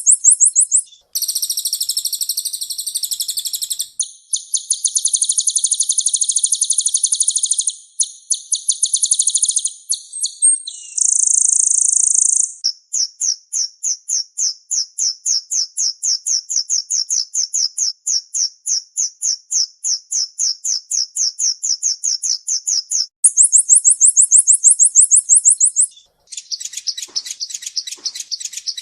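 Olive-backed sunbird (kolibri ninja) singing: a string of high-pitched, very fast trills of repeated notes, switching abruptly from one phrase to the next. A long slower trill of about four notes a second runs through the middle.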